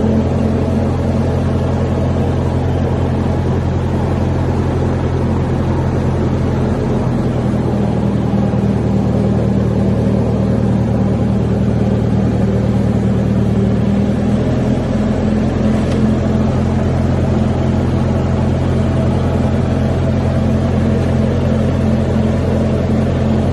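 A machine running with a steady, loud, low drone made of several constant tones. The lowest tone drops away between about seven and fourteen seconds in, then returns.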